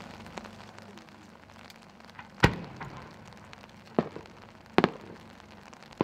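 Japanese 10-gou aerial firework shell and its rising effects: a sharp bang about two and a half seconds in, the loudest, then smaller sharp bangs near four seconds, a quick double just after, and one more at the end, over faint crackling.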